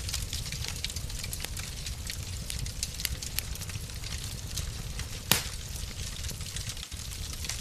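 Wood fire in a fireplace crackling, with many small irregular snaps over a low steady rumble, and one loud pop about five seconds in.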